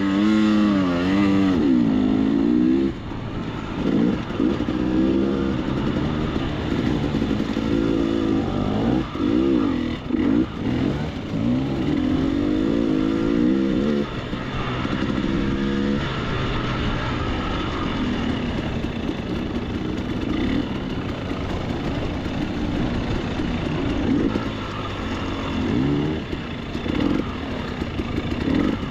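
Dirt bike engine being ridden, its pitch rising and falling with the throttle through the first half, then running more steadily.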